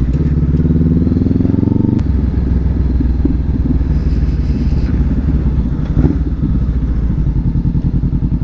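Honda CB500F parallel-twin motorcycle engine accelerating with rising pitch, then an upshift with a click about two seconds in. It runs steady after that and settles into a lower, pulsing beat near the end.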